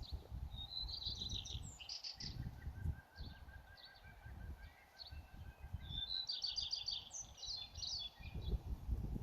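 Songbirds singing: a burst of quick high trilled phrases about a second in and another from about six seconds, with a faint run of repeated notes in between. An irregular low rumble runs underneath.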